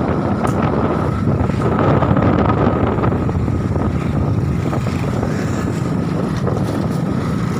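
Strong gusty wind blowing over the microphone, a loud steady rumbling roar.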